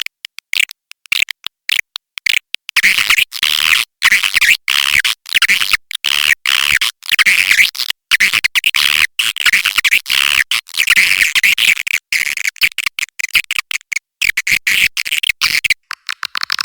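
Recorded swiftlet call track of the kind used to lure swiftlets into a nesting house: dense, rapid high twittering chirps with everything below a fairly high pitch cut away, broken by abrupt short silences. Near the end it changes to quicker, evenly spaced chirps.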